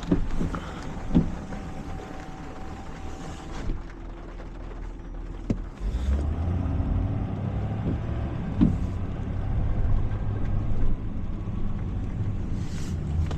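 Tow truck engine running. A sharp click comes about five and a half seconds in, and after it the low engine rumble is louder and steady.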